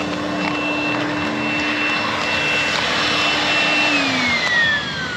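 A motor's steady whine, with a lower hum under it, that starts to wind down about four seconds in, its pitch falling steadily as it slows, over a constant noisy background.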